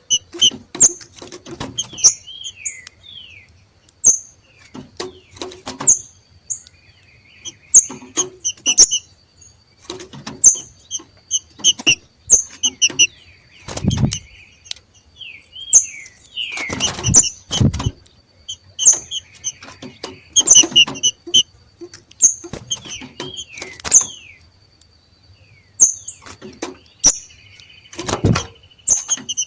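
Two green-winged saltators (trinca-ferro) giving their sharp, repeated 'macheado' call notes, about one short burst every second, mixed with short downward-sliding whistles. A faint steady high tone runs underneath, and several dull thumps come in the middle and near the end.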